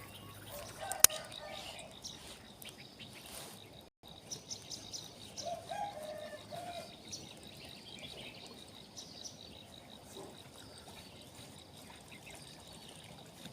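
Outdoor ambience with birds chirping and calling, and one sharp click about a second in.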